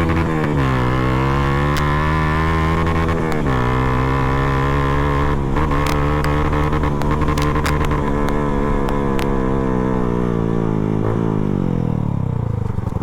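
Single-cylinder motorcycle engine running at steady revs. Its pitch drops in steps: just after the start, a little over three seconds in, and again near the end.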